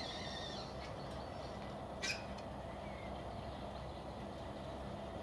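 Steady low rumble of distant road traffic, with a single short bird call about two seconds in and a few faint chirps.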